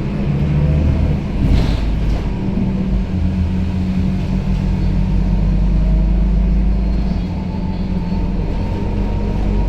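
Scania K270UB city bus heard from inside while driving: the engine's steady low drone with road rumble. There is a brief rattle about a second and a half in, and a faint whine rising slightly near the end.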